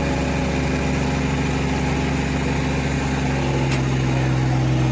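Tractor diesel engine running steadily, its pitch rising slightly about three and a half seconds in.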